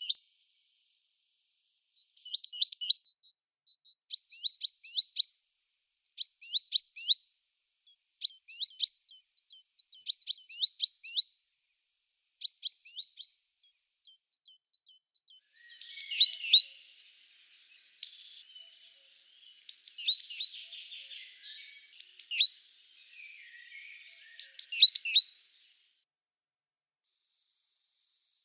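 Small songbird singing short, high chirping phrases, repeated about every two seconds with brief pauses between them.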